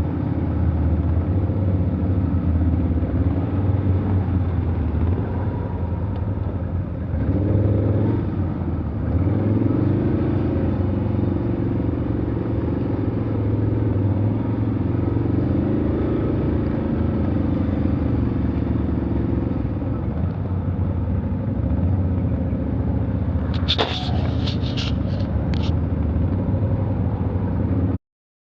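Off-road vehicle engine running at low revs, its pitch rising and falling gently as it drives. A quick run of sharp clicks comes near the end, then the sound cuts off abruptly.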